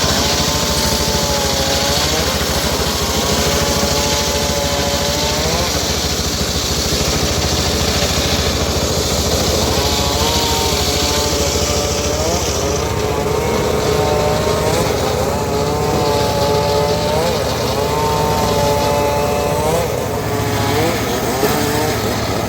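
Engine of a homemade circular sawmill running steadily, with held tones that shift in pitch. A high hissing cutting noise stops about halfway through.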